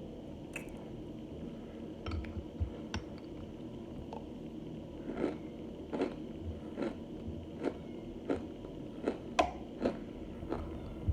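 Close-up chewing of chunks of laundry starch and microwave-baked cornstarch: sharp crunches and clicks about once a second over a steady low hiss.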